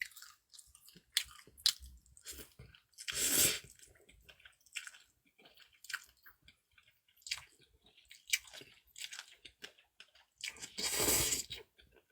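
Close-up mouth sounds of eating cold naengmyeon noodles: steady chewing with many small wet clicks and crunches, and two longer, louder noisy stretches about three seconds in and again near the end.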